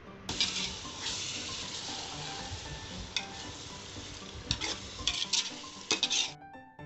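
Spiced onion-tomato masala with freshly added yogurt sizzling in a hot pan while it is stirred, with a few spoon scrapes against the pan. The sizzling cuts off suddenly near the end.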